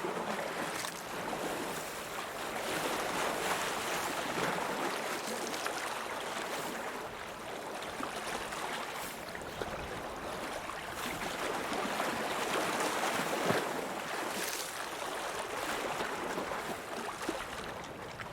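Lake water washing against the shore in small waves, swelling and easing every few seconds, with a few brief splashes.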